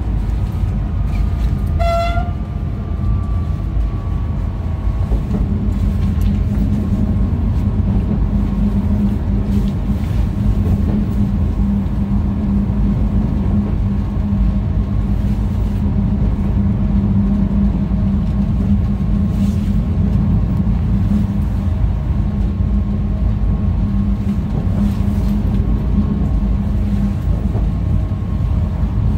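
Passenger train running along the track, heard from the driver's cab as a steady low rumble of wheels and drive. A short horn toot sounds about two seconds in, and a steady motor hum joins the rumble from about five seconds in until near the end.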